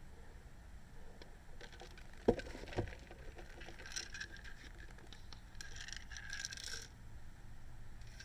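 Someone moving about inside a parked car: two knocks about half a second apart, then two spells of rustling.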